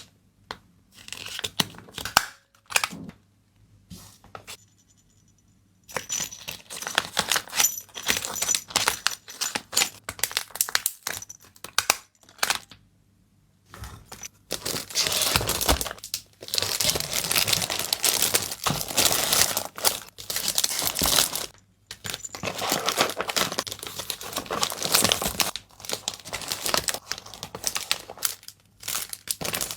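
Packing materials handled close to the microphone: plastic wrapping crinkling and tearing, with taps and clicks. It comes in short bursts with brief quiet gaps in the first half, then in long dense stretches of crinkling.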